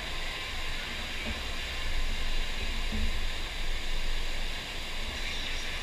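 Steady rush of water pumped across a FlowRider sheet-wave surf machine.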